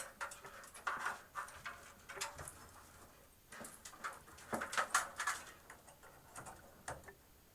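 Irregular light clicks, taps and rustles of cables and parts being handled inside a rack-mount computer case, busiest about halfway through.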